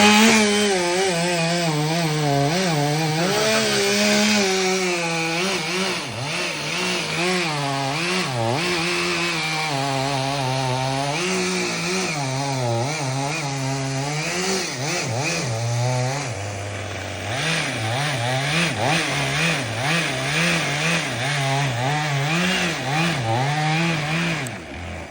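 Chainsaw cutting into a heavy burr oak, its engine pitch rising and falling as the chain bites and frees. About two thirds of the way through it bogs down to a lower note for a moment, then picks back up, and it drops away just before the end.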